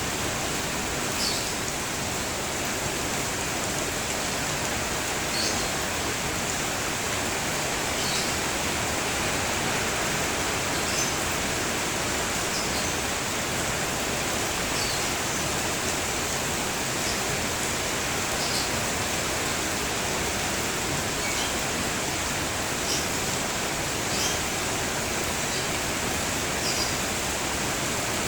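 Steady rain falling, with short, high bird chirps every couple of seconds.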